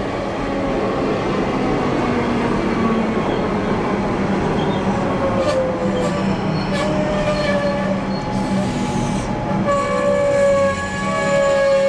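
EDI Comeng electric train running into the station and slowing: a dense rolling rumble with a steady hum, a few sharp clicks in the middle, and a whining tone that falls in pitch. From about ten seconds in a sustained high whine with overtones sounds over the rumble.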